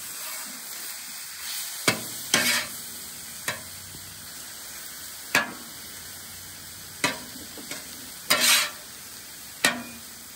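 Chicken pieces sizzling steadily on a hot steel flat-top griddle, with a metal spatula scraping and clacking against the griddle about eight times as the pieces are flipped.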